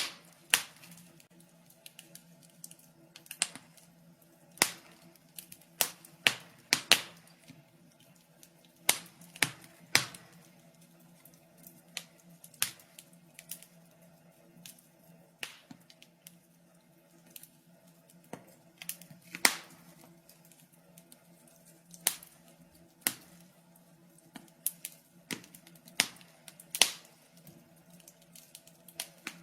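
Wood fire crackling in a fireplace: irregular sharp pops and snaps, a few each second, over a faint steady low hum.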